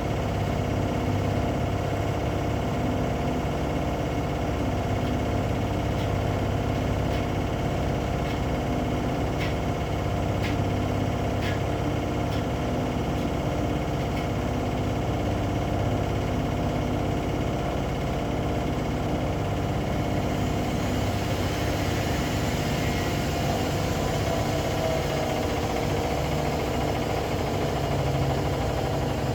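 Washing machine running: a steady motor hum with held tones, a few faint clicks between about six and twelve seconds, and from about two-thirds of the way through a hiss and a wavering tone join in.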